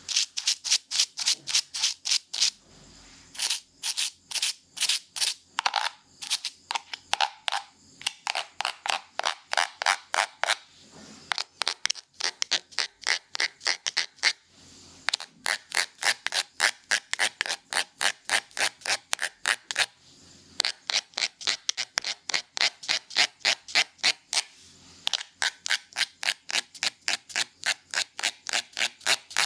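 Hair-cutting scissors snipping close to the microphone in a fast, even rhythm of a few crisp snips a second, pausing briefly now and then.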